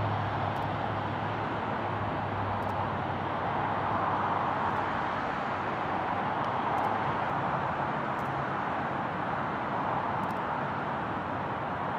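Jet airliner engines heard from the ground as a steady, loud rushing noise. A low hum that dropped in pitch just before fades out in the first few seconds.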